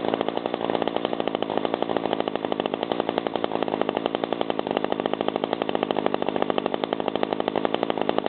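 McCulloch handheld leaf blower's small two-stroke engine running at a steady idle, its rapid firing pulses even and unchanging. It is running warm, having started on the first pull.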